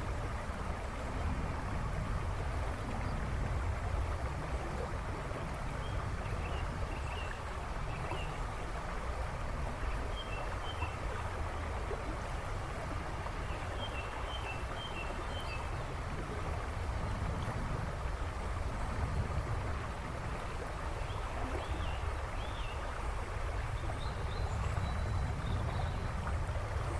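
A river rushing and babbling steadily over stones, with a deep rumble underneath. Songbirds chirp faintly in short phrases now and then over the water.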